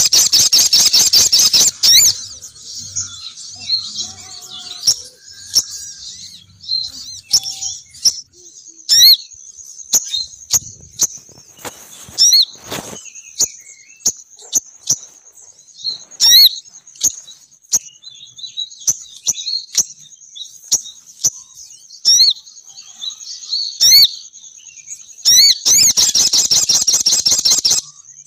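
Sogon bird calls used as a lure: a loud, rapid chattering trill at the start and again near the end, with sharp single chirps scattered between. A thin steady high-pitched whine runs underneath through most of it.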